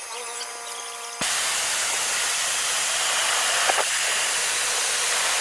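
Automatic car wash machine: at first a faint motor whine over a hiss, then about a second in a loud, steady hiss of spray jets starts abruptly.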